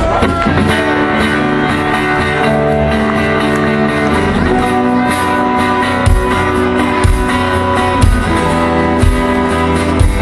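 Live rock band opening a song: guitar chords ringing and strummed, joined about six seconds in by a bass drum beating about once a second.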